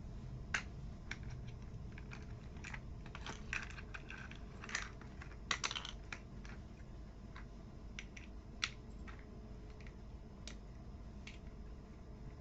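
Small plastic toy building blocks being handled and snapped together: scattered sharp clicks and rattles, busiest in a flurry a few seconds in, then spread out.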